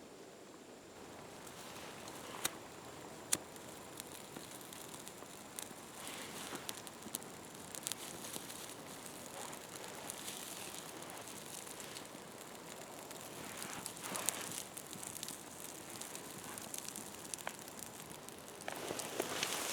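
Dry twigs and brush rustling and snapping, with scattered crackles and two sharp cracks about two and a half and three and a half seconds in.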